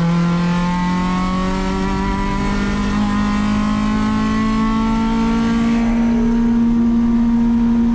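Acura RSX Type-S's 2.0-litre i-VTEC four-cylinder engine, heard from inside the cabin, pulling hard down a straight in one gear, its pitch rising slowly and smoothly throughout. The car has a VTEC fault, so there is no changeover step in the climb.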